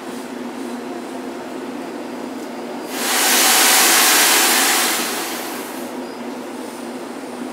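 Metro-North Shoreliner push-pull train standing at the platform with a steady hum; about three seconds in, a loud burst of compressed air hisses from the train for roughly two seconds, then fades out.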